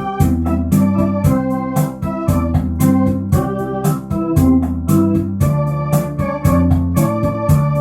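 Electronic organ playing a melody over held chords and a bass line, with its built-in rumba rhythm accompaniment ticking along steadily.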